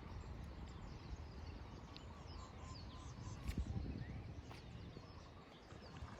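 Wind rumbling on the microphone, with faint high bird chirps and a few soft clicks.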